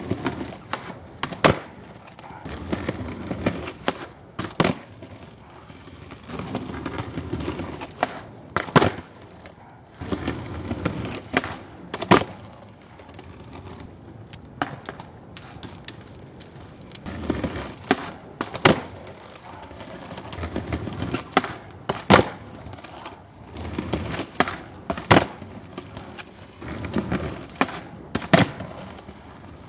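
Skateboard wheels rolling over pavement in stretches, broken every three to four seconds by sharp clacks of the board popping and landing, as in repeated kickflip attempts.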